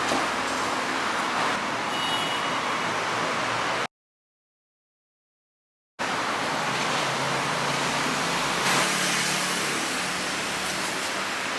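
Steady city street traffic noise, cut by about two seconds of dead silence around four seconds in; a low vehicle engine hum comes up after the gap.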